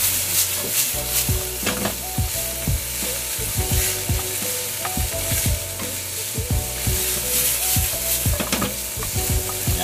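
Diced chicken and carrots sizzling in oil in a non-stick frying pan, with a wooden spatula scraping and knocking against the pan again and again as they are stirred and tossed.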